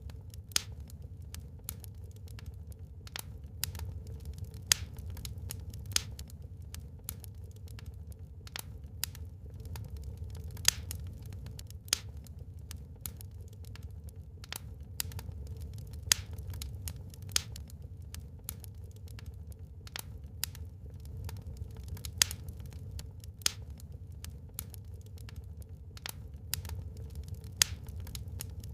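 Wood fire burning in a fireplace, crackling with frequent irregular sharp pops, a few of them much louder, over a low steady rumble.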